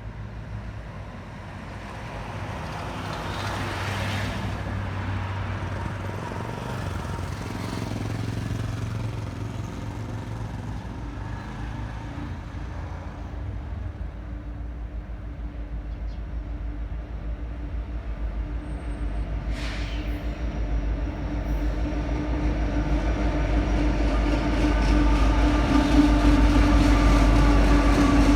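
Norfolk Southern freight train carrying a load of rail, with its diesel locomotive rumbling and a steady drone that grows louder as the train approaches. A single sharp click comes about two-thirds of the way in.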